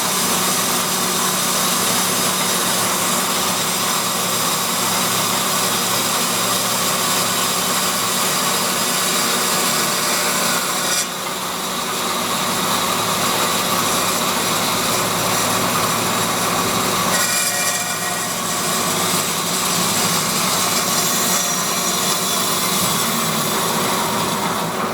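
Doall DC-330NC horizontal bandsaw blade cutting through a wooden 2x4, run dry without coolant: a loud, steady sawing noise with a brief dip about eleven seconds in.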